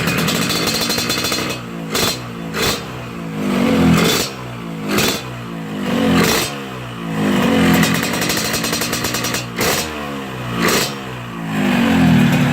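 Yamaha RX-King two-stroke single-cylinder motorcycle engine breathing through a full-stainless Lobster PDK aftermarket exhaust, revved over and over in throttle blips. Its note rises and falls every second or two between idle and revs.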